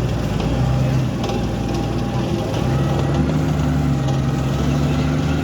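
Heavy vehicle engine running steadily under load, its note stepping up about halfway through.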